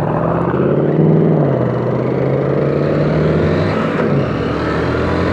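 Loud engine noise from road traffic while riding, with a Chevrolet Camaro close by and wind rushing on the helmet microphone. The engine pitch rises over the first second or so, then holds steady.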